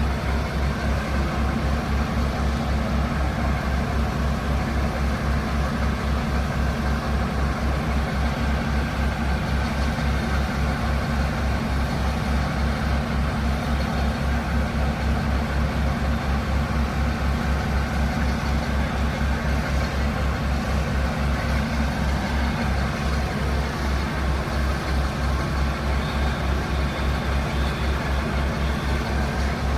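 Heritage mainline diesel locomotive engine idling steadily, with an even, rapid pulsing beat.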